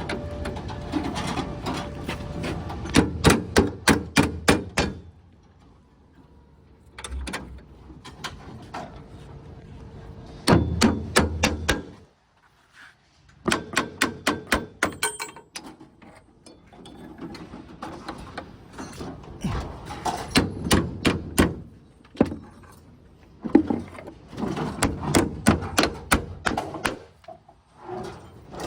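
Hammer driving nails into formwork timber in five bursts of quick, sharp blows, with short pauses between.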